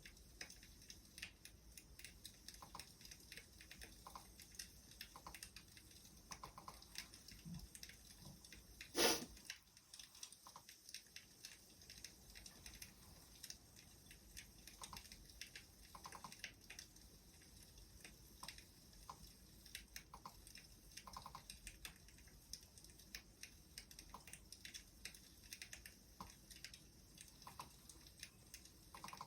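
Wood fire crackling: irregular small snaps and ticks, with one louder pop about nine seconds in.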